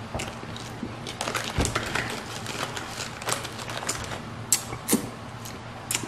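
Close-miked chewing of sugar-coated marshmallow Peeps: soft, wet mouth clicks and smacks at an irregular pace.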